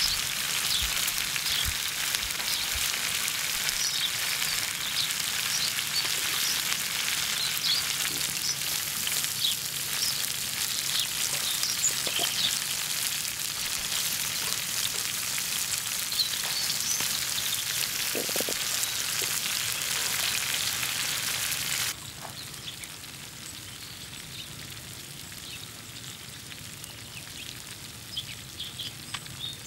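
Chicken wings and bell pepper pieces sizzling in hot oil on a sadj iron pan over campfire embers, a dense crackling hiss. About three quarters of the way through, the sizzle drops suddenly to a much fainter hiss.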